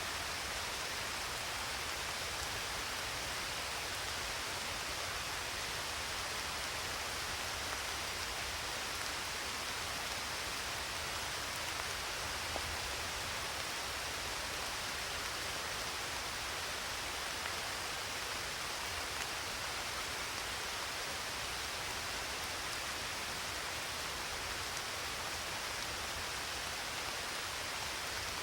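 Steady rainfall, an even unbroken hiss with no thunder.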